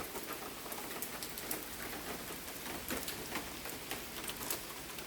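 Outdoor background: a steady faint hiss with many scattered light ticks.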